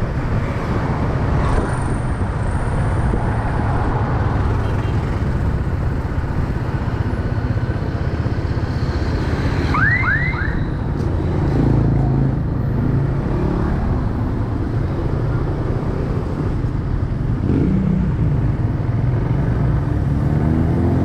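Motorcycle engine running steadily on the move, with wind and road noise. About ten seconds in come three quick rising chirps.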